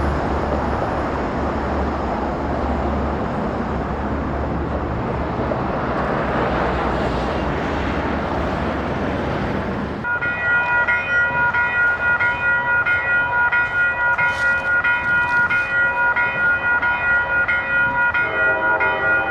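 A Metro-North diesel train passing close, with engine rumble and wheel roar. About halfway through it cuts off abruptly and a grade-crossing warning bell takes over, ringing steadily in quick, even strokes.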